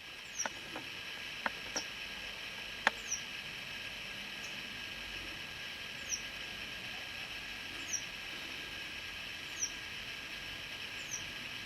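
Newly hatched wild bird chicks peeping in the nest: short, thin, very high notes that drop in pitch, one every second or two, over a steady hiss, with a few sharp clicks in the first few seconds.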